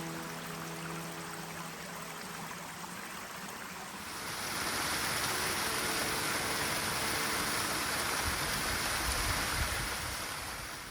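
Stream water rushing over rocks in a steady hiss, getting louder about four seconds in.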